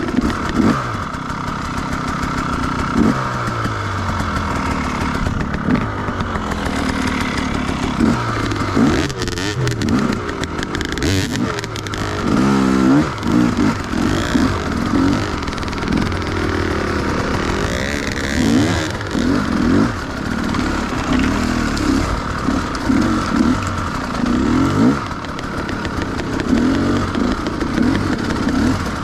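Enduro motorcycle engine revving up and down again and again as it is ridden off-road, with a few knocks and clatter partway through.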